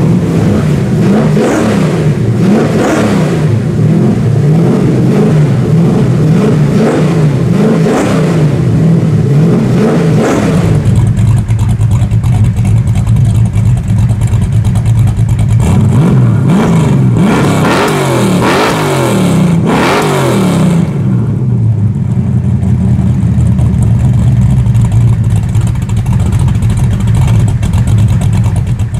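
Cammed small-block Chevy V8 in a 1987 Pontiac Trans Am running at a lopey idle through Flowmaster FlowFX mufflers, exhaust cut-outs closed. The throttle is blipped several times in the first ten seconds and again a little past the middle, each rev falling back to the uneven idle.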